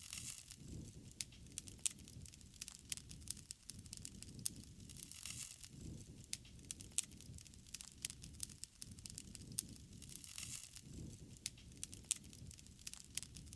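Wood fire burning: irregular sharp pops and crackles over a low, steady rumble.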